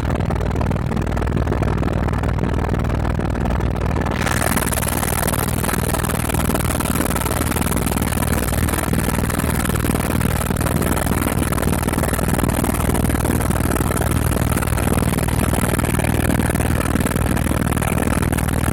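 Helicopter in flight: a steady drone of engine and rotor with no change in pace. A high hiss comes in about four seconds in and stays.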